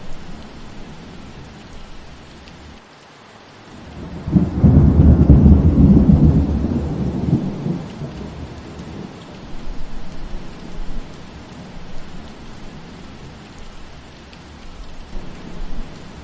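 Steady rain with a roll of thunder that swells up about four seconds in, rumbles deep and loud for a few seconds, then fades away.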